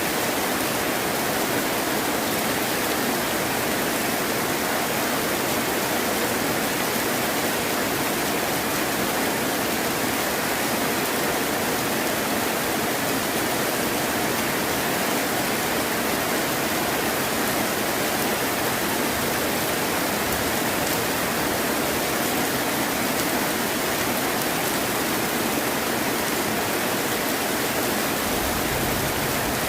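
Heavy rain falling steadily, an even hiss with no single drops standing out. A faint low rumble comes in near the end.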